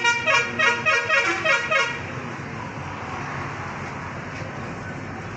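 Vehicle horn sounding in a quick run of about seven short toots that shift in pitch over the first two seconds, then steady road-traffic noise.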